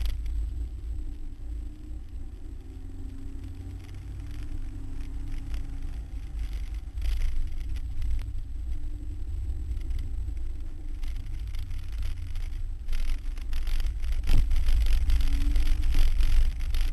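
Ford Cortina engine heard from inside the cabin while the car is driven hard in a hillclimb run. The engine's pitch rises and falls several times with the gear changes, over a heavy low rumble. There is a sharp knock about fourteen seconds in, and the sound grows louder near the end.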